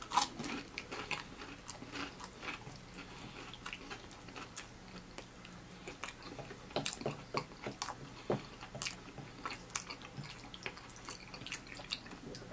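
A person chewing a mouthful of cheesy Hamburger Helper macaroni, with a string of wet smacks and clicks from the mouth. The loudest smack comes right at the start, and the sounds bunch together about seven seconds in.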